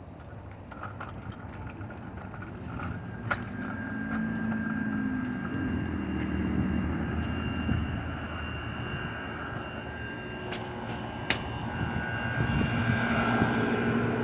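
Outdoor air-conditioning condenser units running in cooling mode: a steady hum of compressor and fan with a few faint steady tones. It grows gradually louder, and a few sharp clicks are heard.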